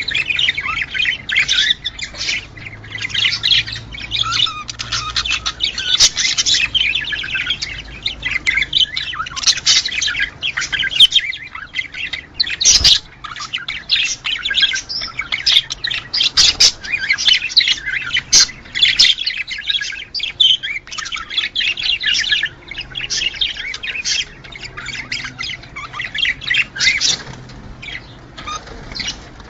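A group of budgerigars chattering: a dense, continuous run of chirps, warbles and squawks, with a few sharp clicks.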